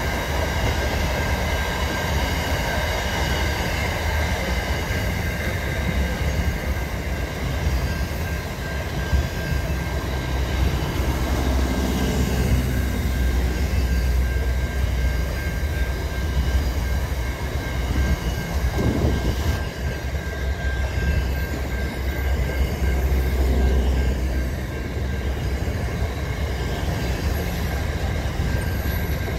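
Freight train wagons rolling past at speed: a continuous heavy rumble of wheels on rail, with a thin steady high-pitched whine above it.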